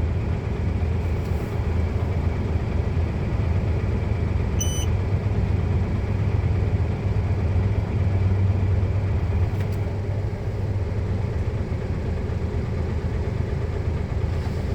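Heavy truck's diesel engine running steadily with a low hum, and a short high beep about five seconds in.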